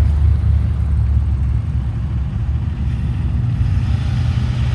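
Low, steady engine rumble of vehicles driving past.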